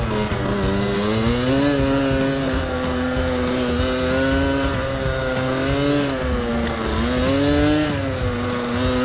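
Small motorcycle engine running while riding, its pitch rising and falling a few times as the throttle opens and closes.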